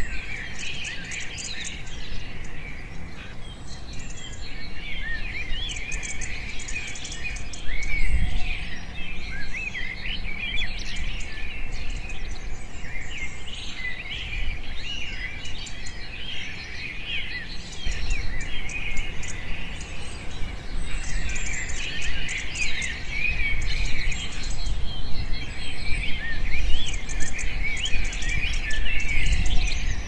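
Small birds chirping and twittering almost without pause, many quick rising-and-falling chirps, over a low rumble that swells now and then.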